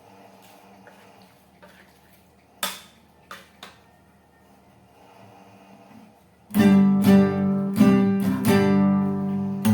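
Acoustic guitar strummed in loud chords, starting about six and a half seconds in. Before that it is quiet apart from three short, sharp sounds a little under three seconds in.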